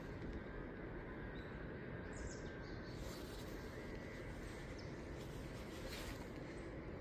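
Wild birds calling in short, high, scattered notes over a steady low outdoor rumble.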